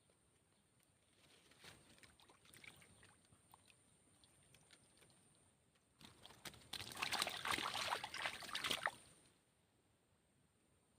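Water splashing and sloshing in short bursts, loudest for about two seconds past the middle.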